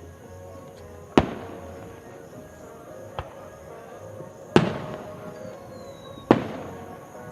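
Aerial fireworks shells bursting: three loud booms about a second, four and a half and six seconds in, each trailing off in a rolling echo, with a smaller pop between them. Music with held notes plays steadily underneath.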